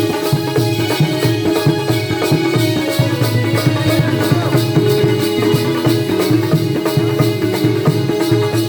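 Jakhadi folk-dance music: steady held tones under a fast, even percussion beat with a jingling, rattle-like top.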